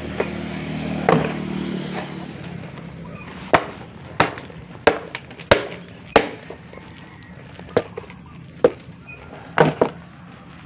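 A Yamaha RX-King 135 two-stroke motorcycle engine idling, fading away after about two seconds. It is followed by a series of about eight sharp knocks or blows, irregularly spaced roughly a second apart, which are the loudest sounds.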